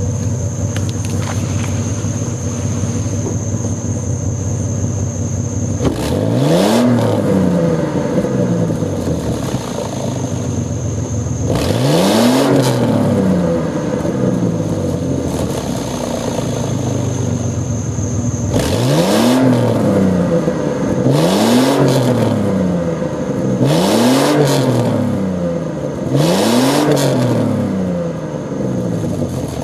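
Stock exhaust of a 1998 Ford Explorer's 4.0 SOHC V6, heard from behind the vehicle, idling and then blipped six times. Each rev climbs quickly and falls back to idle; the last four come close together.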